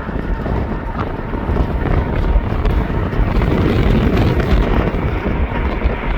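Wind buffeting the microphone: a loud, rough, unsteady rumble heaviest in the lows, with a faint steady tone above it.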